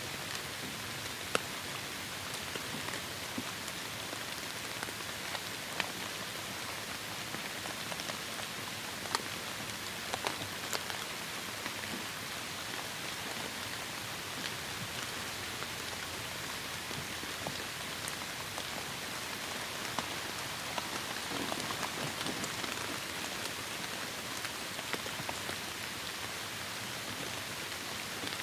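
Steady heavy rain falling, with scattered louder individual drops pattering close by.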